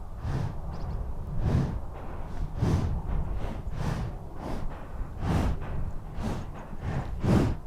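A horse breathing hard, a run of breathy puffs about once a second over a low, steady rumble; the strongest puff comes near the end.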